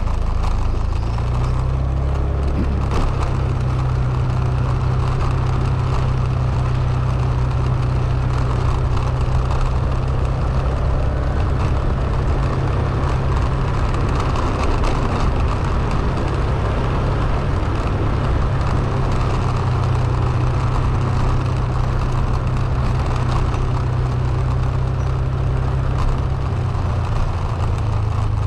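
A motor vehicle's engine running steadily, a constant low hum with an even rush of noise over it.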